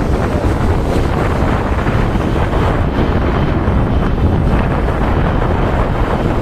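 Wind blast on a motorcyclist's vlogging microphone while riding: a loud, steady rumbling buffet. This is the wind-noise problem the rider is trying to cure in his setup.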